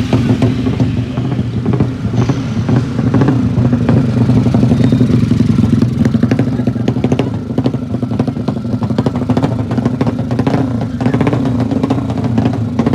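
Motorcycle engine running steadily at a fairly constant speed, with light mechanical clatter over it.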